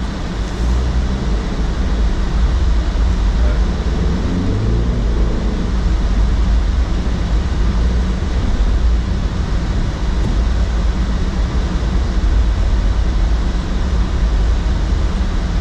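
Inside the cabin of a 2016 Mazda CX-9 AWD driving on a snow-covered road: a steady low rumble of engine and tyres, with the engine note climbing a few seconds in as it accelerates.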